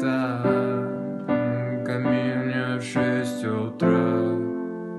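Instrumental backing music: sustained keyboard chords, a new chord about every second, fading out near the end as the song closes.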